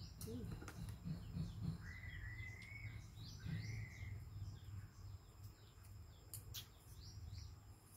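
Faint bird chirps repeating over a steady low hum, with two longer wavering whistled calls, about two seconds in and again about three and a half seconds in, and a few sharp clicks near the end.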